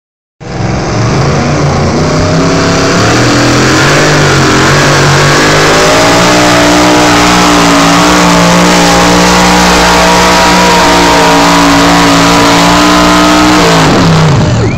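A competition pulling truck's engine at full throttle dragging the sled, very loud. Its note climbs over the first few seconds, holds high and steady, then drops away sharply near the end.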